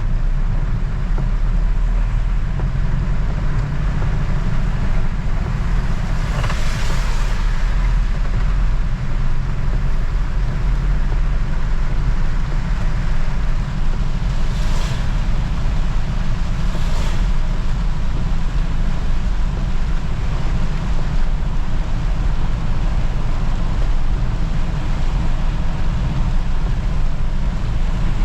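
Road vehicle heard from on board while driving: a steady low rumble of engine and tyres under a constant hiss of road and wind noise, with three brief rushing swells, the first about seven seconds in and two more near the middle.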